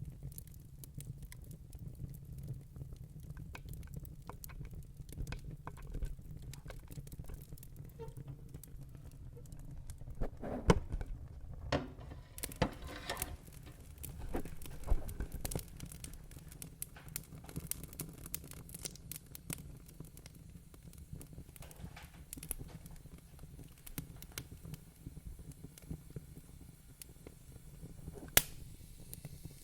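Wood fire crackling in a fireplace: scattered snaps and pops over a low steady rumble. A burst of louder pops comes about ten to thirteen seconds in, and a single sharp pop near the end.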